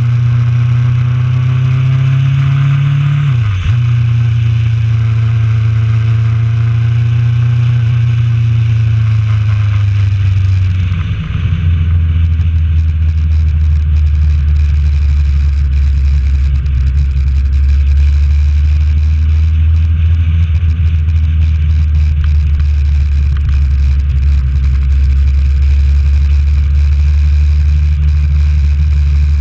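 Honda CB1000R's inline-four engine pulling through the gears: its pitch rises, drops sharply about three seconds in at an upshift, rises again, then drops around eleven seconds in and settles into steady cruising, under constant wind noise.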